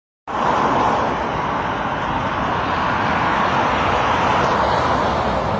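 Motorcycle engines running in a steady, continuous drone.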